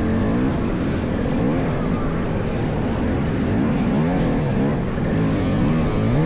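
300 cc two-stroke SJ300 dirt bike engine running, its pitch rising and falling again and again as the throttle is worked.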